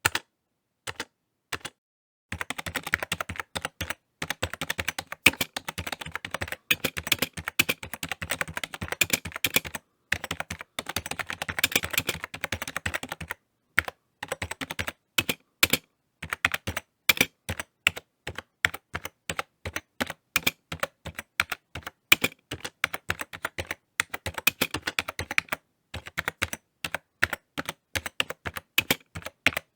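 Typing on a computer keyboard: quick runs of key clicks with short pauses between them, a long fast burst in the first half.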